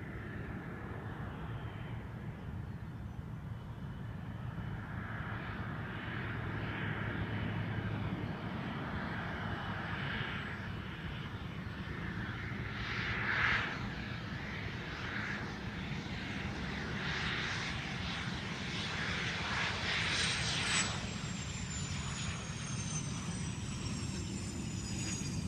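Cessna Citation V business jet's twin turbofans on its landing, a steady rushing that slowly grows louder. About twenty seconds in, a thin high whine starts and glides steadily down in pitch.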